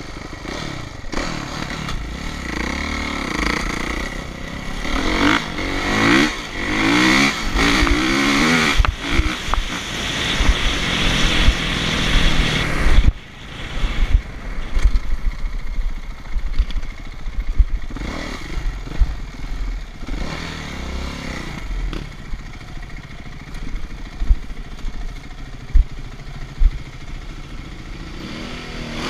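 Motocross dirt bike engines revving and riding, the pitch rising and falling with the throttle. The sound is loudest in the first half and drops off suddenly about thirteen seconds in, then comes back more quietly.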